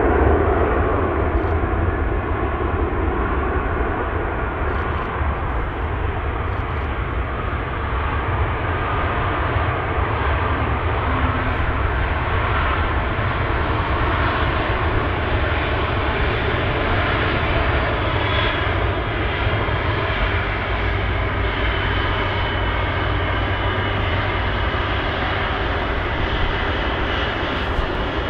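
Jet airliner engines running in a loud, steady, sustained roar, with a faint high whine showing in the second half.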